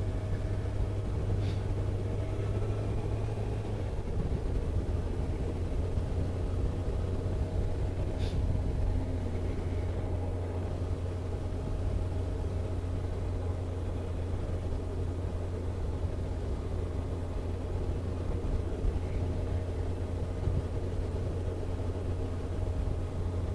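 Car driving at steady speed: a continuous low engine and road drone, with a faint tick or two.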